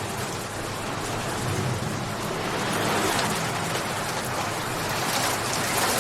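Steady rainfall, a dense even hiss of drops, swelling slightly louder about halfway through and again near the end.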